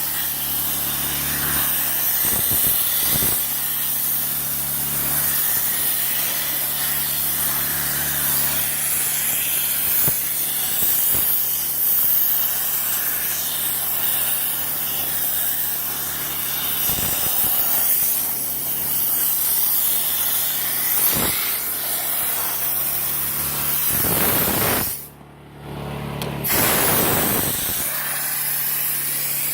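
Steam car-wash machine spraying steam from its wand: a steady hiss over a low machine hum. The spray cuts off for about a second and a half near the end, then starts again.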